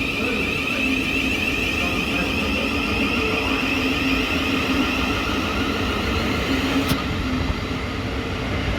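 Electric train at a station platform, running with a steady motor hum and a high whine that eases slightly down in pitch; one sharp click about seven seconds in.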